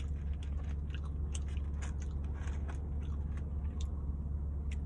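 Close-miked chewing of a mouthful of barbecue rib meat, with frequent small mouth clicks and smacks. A steady low hum runs underneath.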